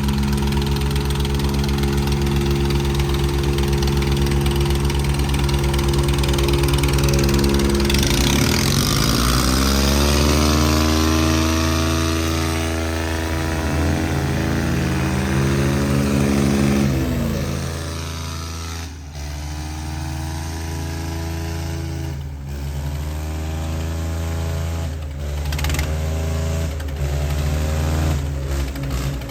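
Tractor diesel engine running hard at a steady speed for the first several seconds. From about eight seconds in, its speed swings up and down several times.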